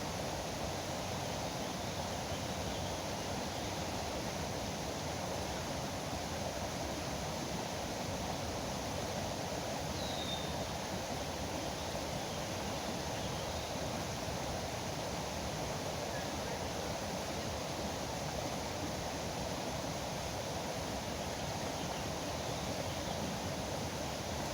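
Steady rushing of river water, even and unbroken, with one faint short bird chirp about ten seconds in.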